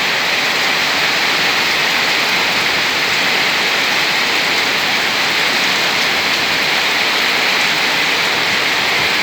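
Heavy rain pouring down steadily, a loud even hiss of downpour.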